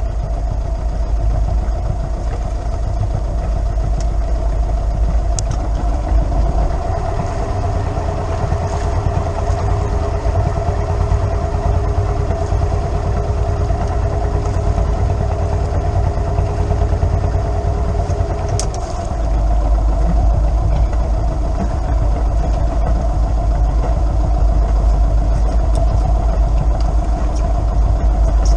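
An engine running steadily at an even speed. A steady hum joins it about 7 seconds in and drops out again about 19 seconds in.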